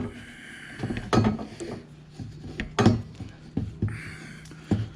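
Steel exhaust pipe knocking and clunking as it is worked onto its rubber hanger under the car: a handful of separate knocks at uneven intervals.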